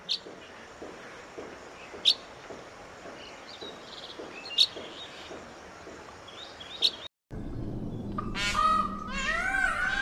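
A bird gives single sharp, high chirps, four times about two seconds apart, over a faint outdoor hiss. After a brief cut near seven seconds, a louder run of repeated arching calls begins: Indian peafowl calling.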